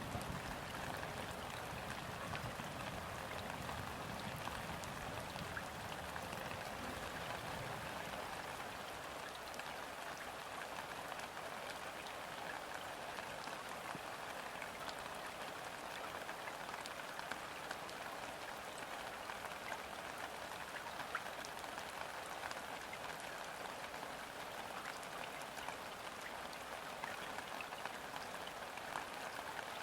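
Steady gentle rain falling on river water, a dense patter of fine drop ticks. A low rumble underneath dies away over the first several seconds.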